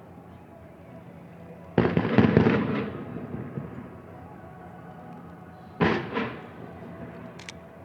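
Aerial fireworks shells bursting: a rapid cluster of loud bangs with a crackling tail about two seconds in, then two more sharp bangs in quick succession near the end.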